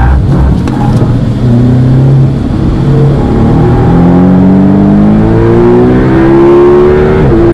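Porsche 718 Boxster's turbocharged flat-four, heard from inside the cabin, under hard acceleration on track. The engine note eases briefly at first, then climbs steadily in pitch from about two seconds in as the car pulls through the gear.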